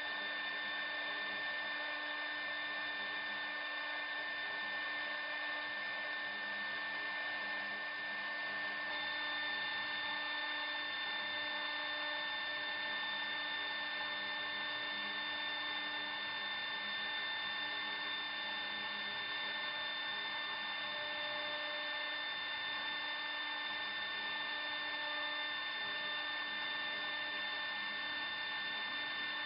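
CNC router spindle running at high speed, a steady high-pitched whine, its tone shifting slightly about nine seconds in.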